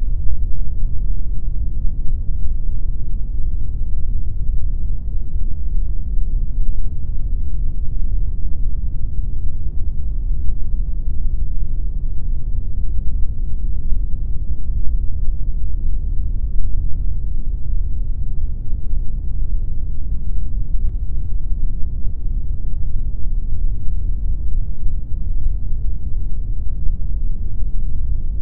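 Steady generated pink noise: an even, unbroken rushing sound weighted toward the low end, with little in the treble.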